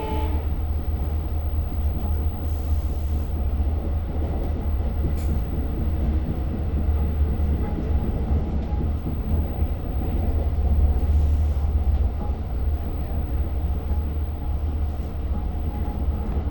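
Steady low rumble of a Long Island Rail Road train running, heard from inside the passenger coach, with a few short high hisses.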